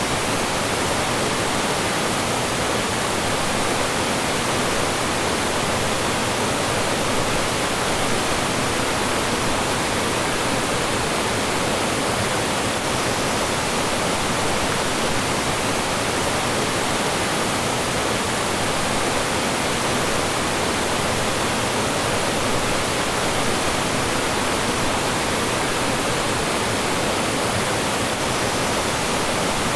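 Mountain stream rushing over rocks and small falls: a steady, even wash of water noise with no breaks.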